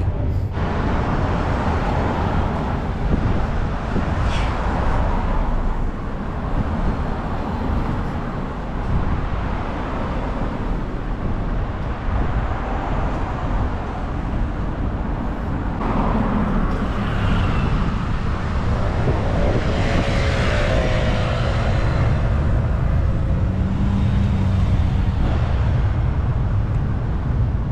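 Steady wind rumble on the microphone and road traffic noise during a bicycle ride, with brief pitched sounds passing about two thirds of the way through.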